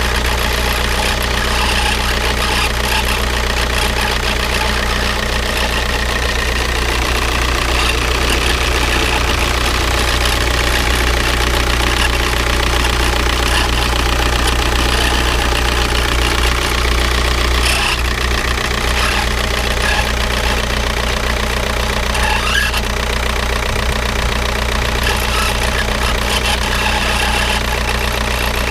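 Škoda Octavia 1.9 TDI four-cylinder turbodiesel engine idling steadily with a strange noise in it. The owner suspects damage around the power steering, the alternator or their V-belt.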